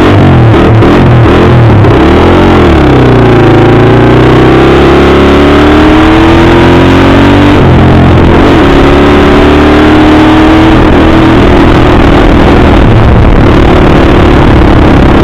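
Dirt bike engine running very loud and close, its revs rising and falling as the throttle is worked.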